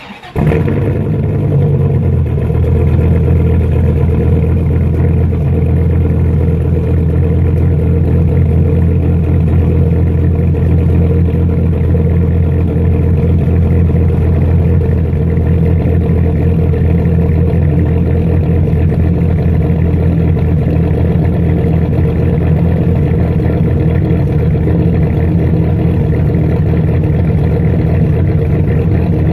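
Supercharged 1996 Dodge Viper GTS's 8.0-litre V10 cranking briefly and catching within half a second on a cold start, then idling steadily and loudly through a straight-pipe exhaust.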